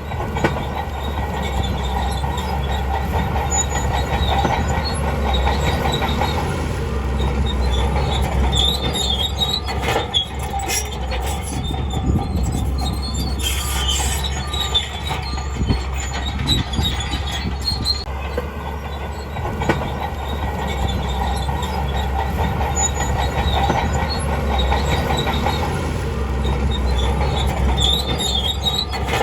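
Shantui DH17C2 crawler bulldozer running steadily, its diesel engine humming under the squeal and clank of its steel tracks, with scattered knocks.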